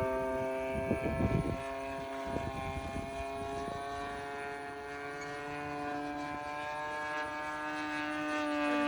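The 20cc gasoline engine of a Pilot RC Laser model airplane running with its propeller, a steady buzzing tone that edges slightly up in pitch toward the end. Wind gusts on the microphone about a second in.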